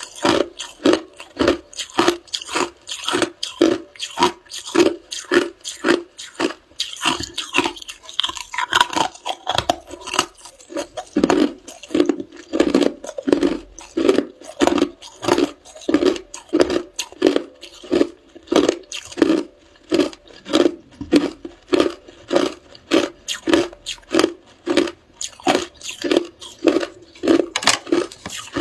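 A person chewing ice, crunching it between the teeth in a steady rhythm of about two crunches a second.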